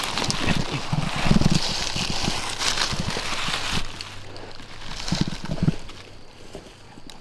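Close rustling and crackling from movement right at the microphone, with soft thumps, dense for the first four seconds, then again briefly about five seconds in before settling.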